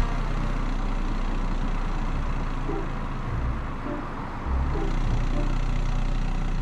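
A car running: steady low engine rumble and road noise, swelling briefly about four and a half seconds in.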